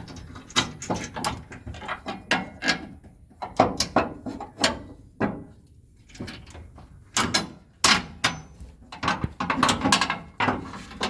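Irregular metal clicks and knocks of tow-bar bolts and backing plates being worked into place inside a ute's chassis rail, with a denser run of clatter in the second half.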